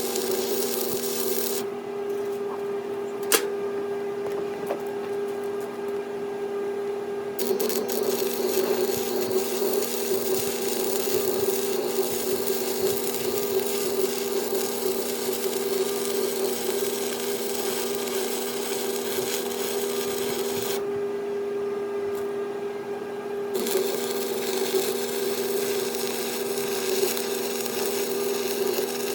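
Power grinder running steadily and grinding on steel. The grinding hiss drops away twice for a few seconds while the motor tone keeps going, as the tool comes off the work.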